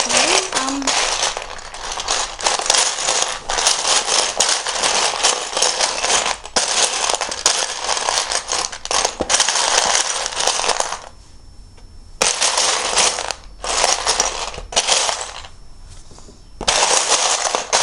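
Loose plastic Lego bricks rattling and clicking together as a hand rummages through a tub of pieces, searching for particular bricks. The rattling is dense and loud and stops briefly twice in the second half.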